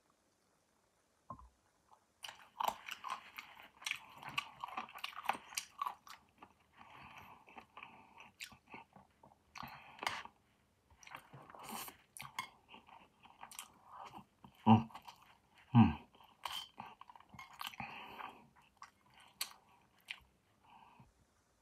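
A person chewing roast chicken, mouthful after mouthful, with many short wet clicks. Two louder thumps come about two-thirds of the way in.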